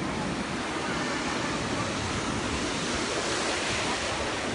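Sea surf breaking and washing up the beach, a steady rush of waves that swells a little about three seconds in, with some wind on the microphone.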